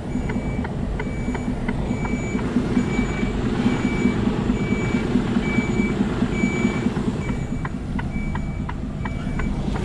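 Articulated lorry reversing: its reversing alarm beeps steadily, about one and a half beeps a second, over the low, even hum of the diesel engine.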